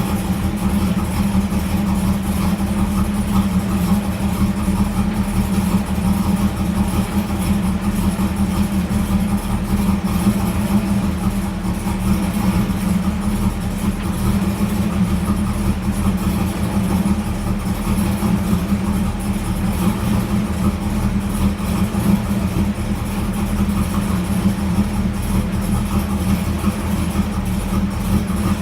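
Brand-new LT1 5.7-litre V8 in a 1994 Camaro idling steadily on its first start-up.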